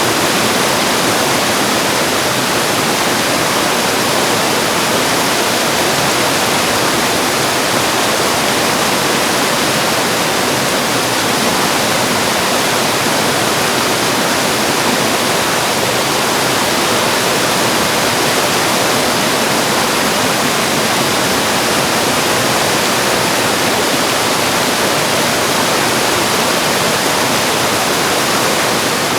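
Mountain stream water rushing and cascading over rocks, a steady full hiss with no breaks.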